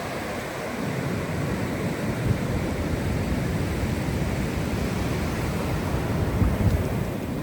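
Ocean surf washing steadily on a beach, with wind gusting on the microphone as a fluctuating low rumble that strengthens about a second in.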